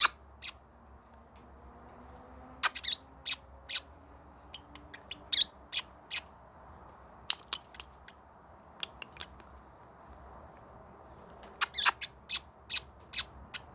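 Parrotlet making kissing noises: many short, sharp smacking sounds, some single and some in quick clusters of two to four.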